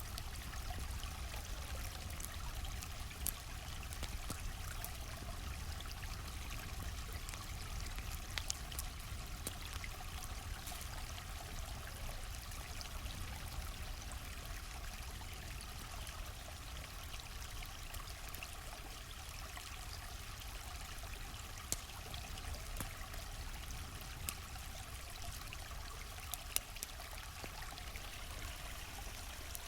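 Stream flowing steadily, with a handful of sharp crackles and pops from a campfire scattered through it.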